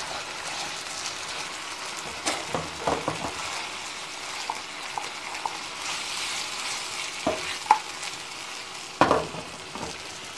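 Chicken drumsticks sizzling in a thick tomato-ketchup sauce in a non-stick frying pan, a steady frying hiss. Scattered clicks and knocks come from a spatula turning them and the pan being shaken, the loudest about nine seconds in.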